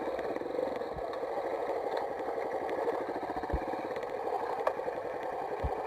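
Mini motocross bike engine idling steadily, with a few dull low thumps.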